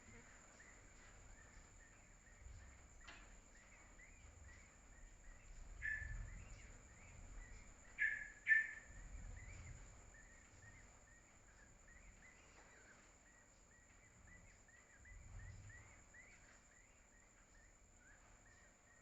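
Birds chirping: many short soft chirps, several a second, with a few louder calls about six and eight seconds in, over low background rumble.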